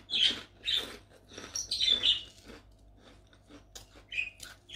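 Crunching of crisp kerupuk (Indonesian fried crackers) being chewed close to the microphone: a run of loud crunches in the first two seconds or so, then a few quieter ones.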